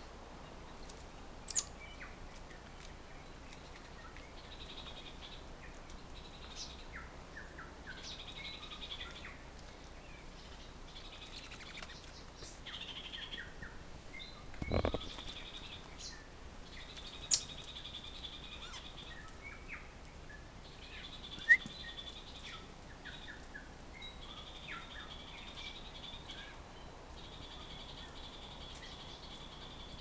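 Small birds chirping and calling, with a short phrase of one to two seconds repeated every few seconds and a few sharp high chirps. A single short knock about halfway through.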